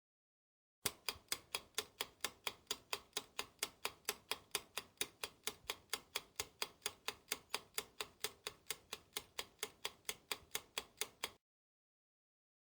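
Clock-style ticking, even and steady at about four ticks a second, starting about a second in and cutting off suddenly near the end: a timer ticking sound effect.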